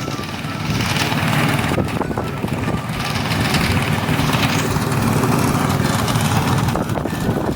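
Engine-driven rice threshing machine running steadily, with a rushing noise that swells and fades several times over the engine hum.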